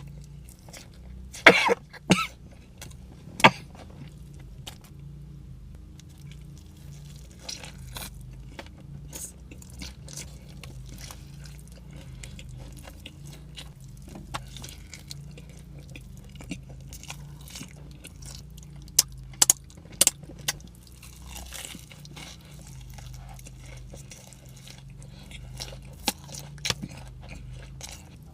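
A person chewing and crunching food close to the microphone, with a few sharp clicks here and there, loudest about one and a half to three and a half seconds in and again around nineteen to twenty seconds in. A low steady hum runs underneath.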